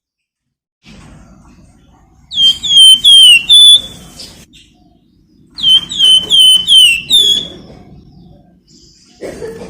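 A flamboyan songbird calling: two loud bursts of quick, shrill whistled notes, each note sliding sharply down in pitch, about five notes to a burst with a short pause between the bursts.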